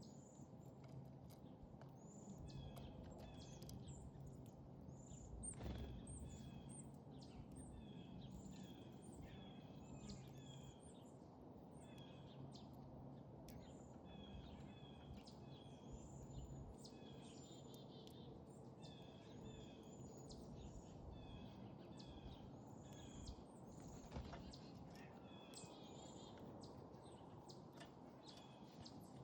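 Small backyard songbirds chirping and calling many times over, faint, with short repeated notes and higher thin calls, over a low steady hum.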